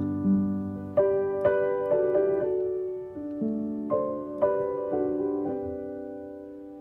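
Background music: a piano playing the slow, sparse closing notes of a song, each note ringing and dying away as the music fades out.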